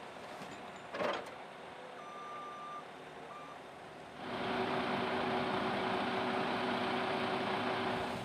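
Heavy truck engine running at a low level, with a single clunk about a second in and a beeping tone twice a little later, then the engine comes up much louder and holds steady from about four seconds in.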